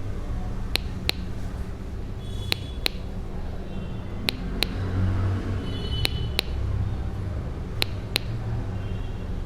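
Small speaker driven by a two-transistor capacitor oscillator with a 10 µF timing capacitor, giving sharp clicks in pairs about every 1.75 s. The output is low in frequency and not continuous, because the capacitor charges slowly through 330 kΩ and discharges quickly through 10 kΩ.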